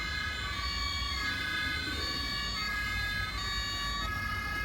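Electronic two-tone siren of a toy fire engine sounding steadily, stepping back and forth between a high and a low note about every half second, over a low rumble.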